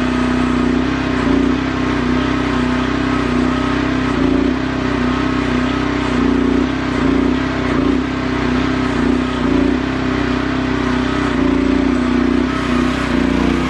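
Small engine of a QH12 mini-excavator running steadily, its loudness rising and dipping slightly now and then.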